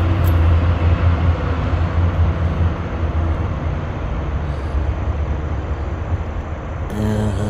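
A motor vehicle engine running steadily, a low hum that fades a little towards the end.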